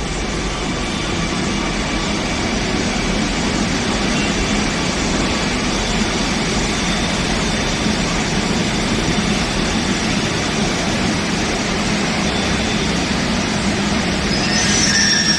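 Kochi Metro train running, a steady rush of wheel, track and motor noise that grows slightly louder near the end.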